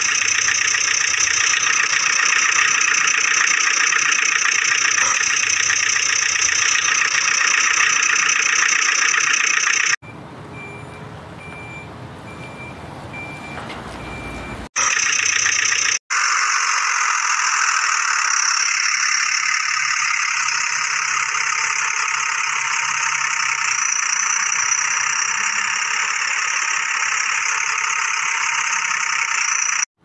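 Steady vehicle engine sound, loud and even. About ten seconds in it cuts off abruptly to a quieter stretch with faint regular beeps like a reversing alarm, then comes back about five seconds later and runs on steadily.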